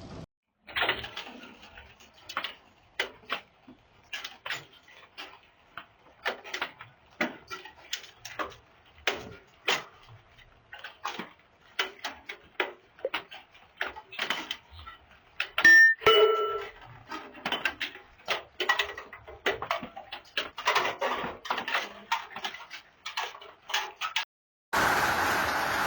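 Hailstones striking hard surfaces: irregular sharp knocks, a few a second, one briefly ringing about two-thirds of the way through.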